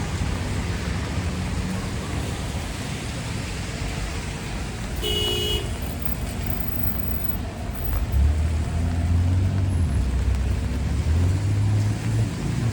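Midtown street traffic with a steady hiss of tyres and engines. A car horn gives one short honk about five seconds in. From about eight seconds in, a deep engine rumble grows louder as a vehicle passes close.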